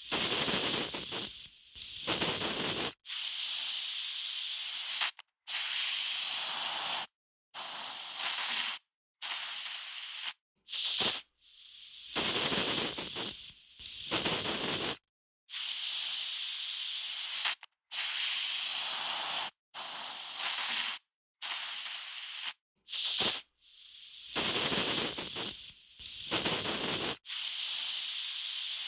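Aerosol spray can hissing out a string of about fifteen separate sprays, each from half a second to three seconds long, cut apart by short silent gaps. A few sprays start faint and swell.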